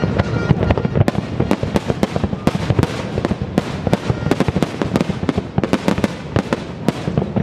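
Fireworks bursting in rapid succession: a dense run of sharp bangs and crackles, several a second, over a continuous low rumble.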